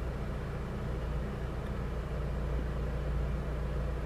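2006 Honda Civic engine idling steadily, heard from inside the cabin as a low, even hum.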